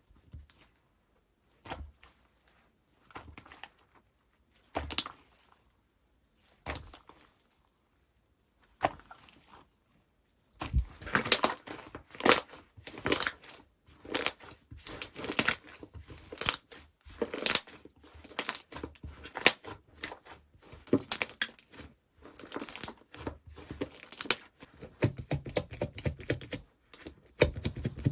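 Slime being pressed and squished by hand, making crackling pops. For the first ten seconds there are a few separate pokes, then a steady run of crackles comes several times a second.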